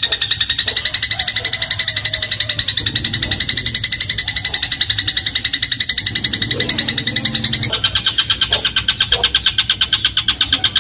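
Eurasian tree sparrow (burung gereja) giving a long, rapid chattering 'crot' call, about a dozen sharp notes a second, which changes to a brighter pattern about three-quarters of the way through.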